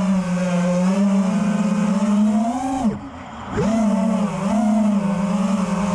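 FPV freestyle quadcopter's brushless motors whining in flight. The pitch climbs, then drops away sharply about three seconds in, the motors throttled down for about half a second before spooling back up.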